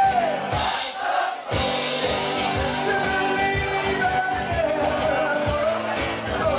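A band plays a song over a steady beat, with sustained sung or melodic lines above it. The low beat drops out briefly about a second in and then comes back.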